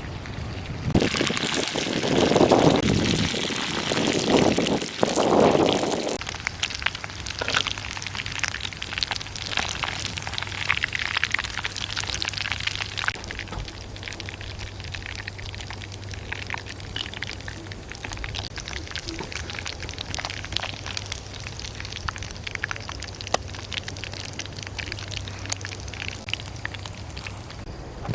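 Frog pieces frying in hot oil, sizzling with a dense crackle of popping spatters. It is louder and fuller for the first several seconds, then settles into a steadier sizzle.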